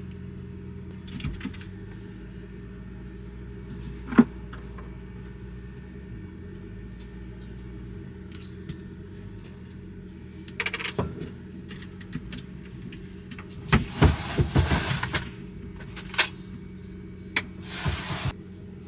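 Steady low hum with a thin high whine, broken by scattered knocks and a short spell of clattering about two-thirds of the way in, as of objects being handled and set down in a small room.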